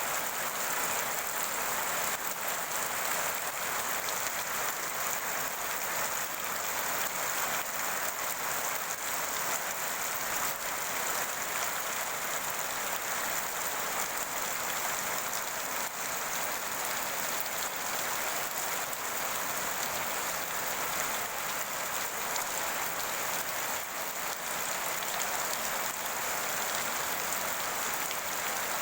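Steady rain falling on a surface, an even hiss made up of many fine drop ticks.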